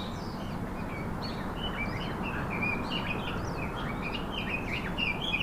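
Several small birds chirping and twittering in quick, overlapping calls over a steady outdoor hiss. The chirping grows busier toward the end.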